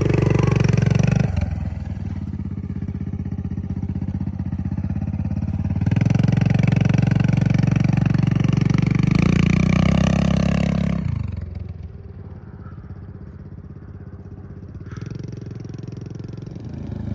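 Kawasaki KLX110R's small single-cylinder four-stroke engine pulling under throttle as the dirt bike climbs a steep hill. It drops off sharply around eleven seconds in to a lower, quieter running, then picks up again near the end.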